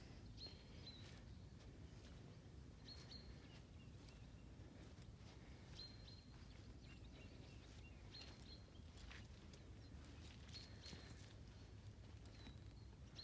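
Faint ambience: a bird repeats a short high call every two to three seconds, with a few softer chirps between, over a quiet low rumble.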